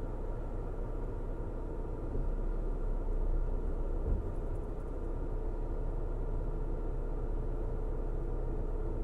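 Car driving at a steady speed, a low, even rumble of road and engine noise. A single short low thump comes about four seconds in.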